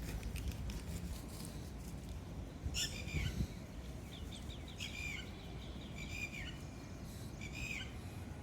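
A bird calling in short, high chirps with falling ends, four or five times, over a steady low rumble.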